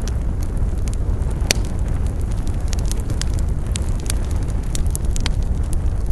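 Wood campfire burning, with frequent sharp crackles and pops over a low steady rumble. There is one louder pop about one and a half seconds in.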